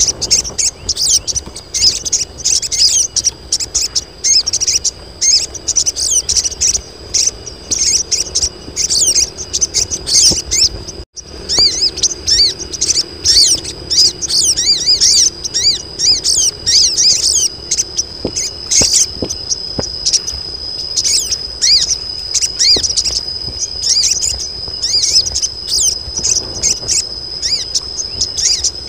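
A flock of female sogon birds calling in a rapid, busy chatter of short high chirps, the calls used to lure males. A steady high insect whine runs underneath, unbroken through the second half.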